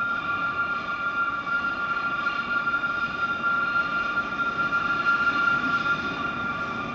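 Ikawa Line diesel-hauled train approaching slowly out of a tunnel on a curve: a low engine-and-running rumble with a steady, high-pitched whine held over it.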